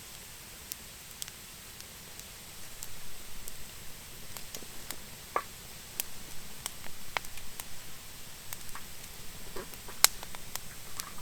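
Campfire of thin, still-damp wood crackling, with irregular sharp pops and snaps. A soft flutter of burning joins in from about three seconds in.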